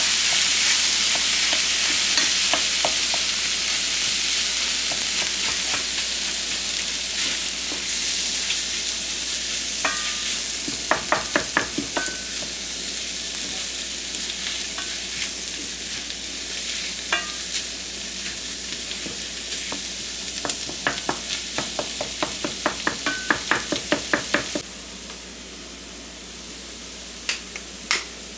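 Tofu scramble sizzling in a frying pan while a utensil stirs it, with quick runs of tapping and scraping against the pan. The sizzle slowly weakens and drops away sharply near the end.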